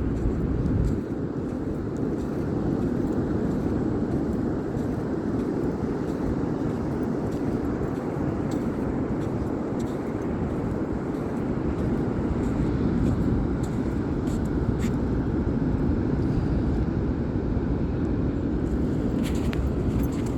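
Ocean surf: a steady rush of waves breaking and washing on the shore.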